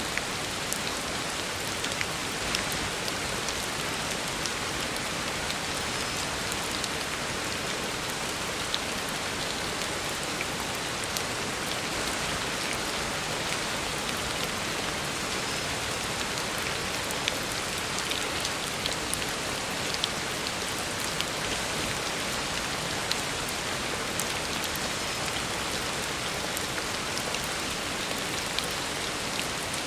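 Heavy rain falling steadily on a road, a dense even hiss with scattered sharp drop splashes.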